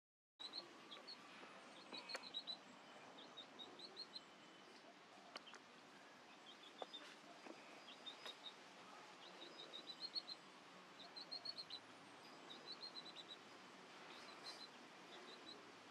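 Faint bird chirps: short high notes in quick runs of three to six, repeating every second or two over a quiet background.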